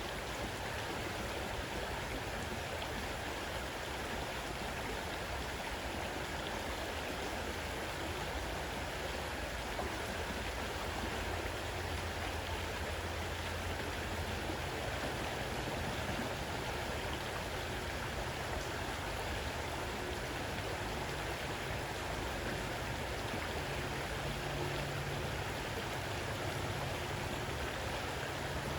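Fast-running river: a steady, even rush of flowing water.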